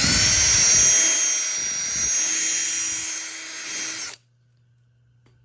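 Power drill running, boring out a hole in a 3D-printed plastic gas tank mount, with a steady high whine; it stops suddenly about four seconds in.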